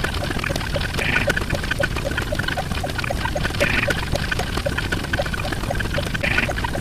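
Steady pouring, bubbling water sound with a low rumble and many small blips. A brighter swell repeats about every two and a half seconds, like a looped sound effect.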